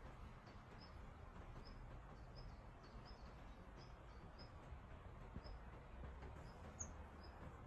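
A small bird chirping faintly: single short high chirps repeated about twice a second over a quiet outdoor background, with a couple of higher-pitched chirps near the end.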